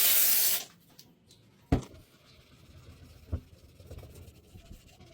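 A spray hiss that cuts off just under a second in, then quiet handling of a small toy model car, with a sharp knock a little under two seconds in and a lighter knock about three and a half seconds in.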